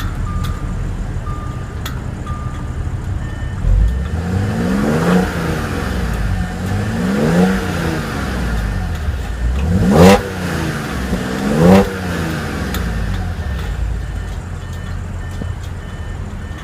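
A 2014 Audi S5's supercharged 3.0-litre V6 idles through the exhaust. It is revved four times in short blips, each rising and falling back to idle, the third one the loudest, then idles again.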